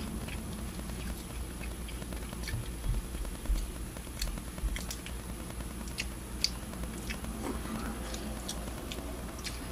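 Someone chewing a bite of crisp layered strawberry wafer bar with the mouth near the microphone: scattered small crunching clicks and a few soft low thumps, with no steady rhythm.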